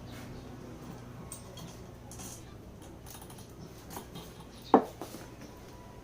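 Metal tools and engine parts clinking during motorcycle engine disassembly, with one sharp, loud clank about three-quarters of the way through.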